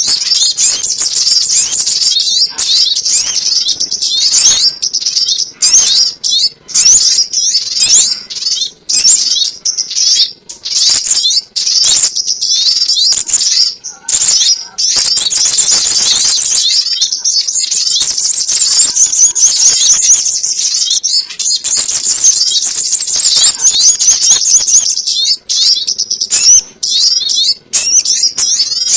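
Lure recording of the sogon ontong bird's call: a dense, loud run of high, rapid chirps and twitters, repeated almost without a break.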